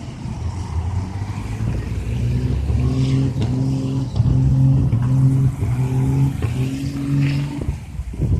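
Heavy trucks driving past in a convoy, with a low horn sounded in a run of short blasts for several seconds before it stops shortly before the end.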